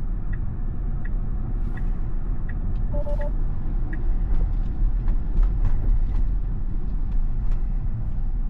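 Steady low road and wind rumble inside a Tesla's cabin while it drives through a windstorm. A turn signal ticks about once every 0.7 s for the first four seconds, with a short two-note chime about three seconds in, and scattered light clicks follow.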